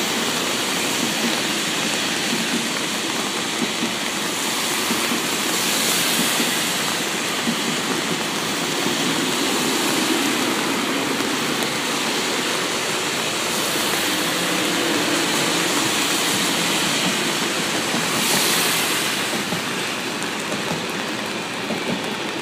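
TGV Duplex double-deck high-speed trains rolling past on the tracks, a steady rushing noise.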